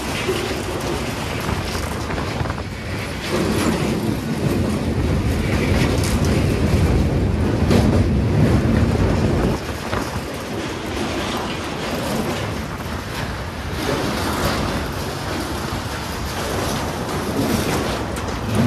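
Indian Railways express train crossing a steel truss bridge, heard from the open coach door: a steady rumble and clatter of wheels on the rails with scattered sharp clacks. It grows louder a few seconds in, then drops back suddenly about halfway through.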